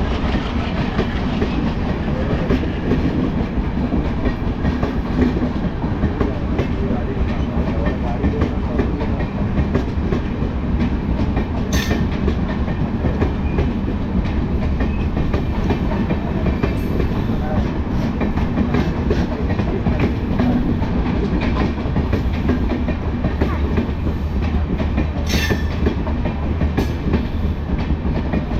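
A train passing at speed, its wagons rolling by with a continuous rumble and clickety-clack of wheels over rail joints. Two brief sharp high-pitched sounds cut through, one about halfway and one near the end.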